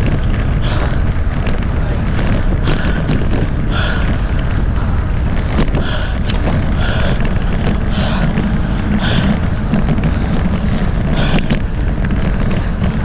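Wind buffeting a bicycle rider's action camera microphone, a loud, steady low rumble, with short hissy puffs recurring about once a second.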